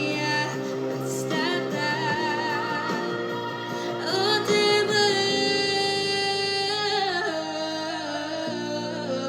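Pop song with a wordless sung vocal line over the backing track, the voice wavering in vibrato and holding one long note about midway.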